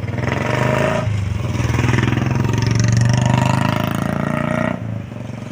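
A motor vehicle's engine running close by, swelling louder and then falling away suddenly near the end.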